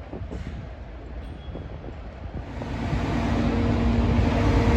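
Truck's diesel engine running, growing louder about halfway in as a steady hum comes up.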